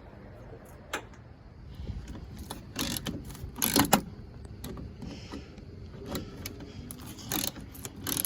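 Hand tools working on the car's metal headlight hardware: a ratchet wrench clicking in short strokes, with scattered clanks and knocks, loudest about three to four seconds in and again near the end.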